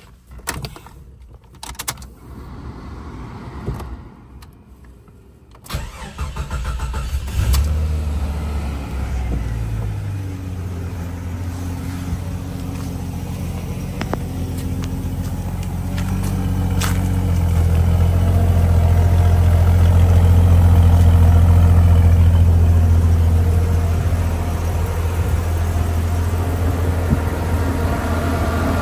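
1992 Jeep Cherokee Laredo engine starting about six seconds in after a few faint clicks, then idling steadily. The idle grows louder past the middle and eases off again near the end.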